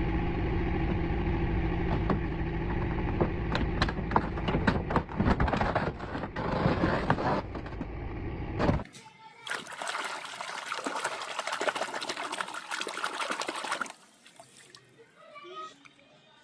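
Water running and splashing with many small clicks and knocks, over a low steady hum, for the first nine seconds; then a brighter hiss for about five seconds that stops suddenly.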